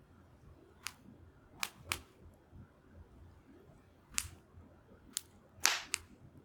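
Wood fire crackling: seven sharp, irregular pops and snaps over a faint low hiss, the loudest a little before the end.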